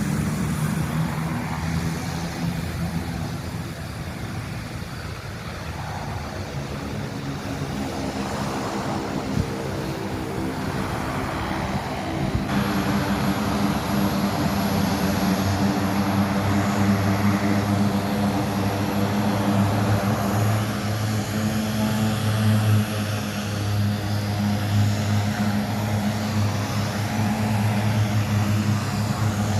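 Propeller aircraft engines droning steadily, growing louder a little under halfway through.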